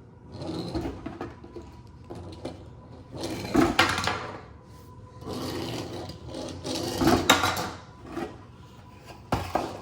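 Die-cast Hot Wheels monster truck toys rolling and clattering down a makeshift ramp and across a tabletop, in bursts, with the loudest runs about three and a half and seven seconds in.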